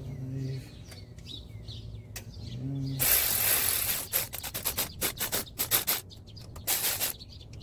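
Work on the engine bolts: a burst of rough noise about three seconds in, then a run of sharp, irregular metal clicks and clacks as a bolt is run down. Birds chirp faintly in the background.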